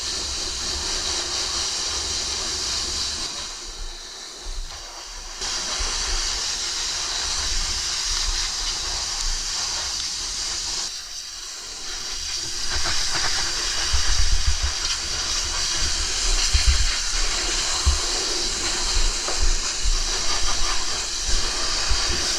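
Wind buffeting the microphone: a steady loud hiss with gusty low rumbles that dips briefly twice and grows stronger and more gusty in the second half.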